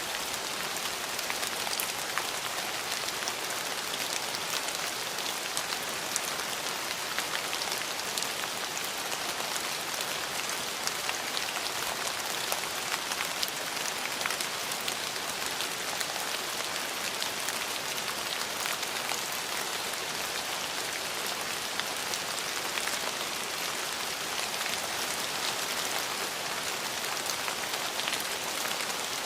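Steady rain falling on hard surfaces, an even hiss full of fine individual drop ticks.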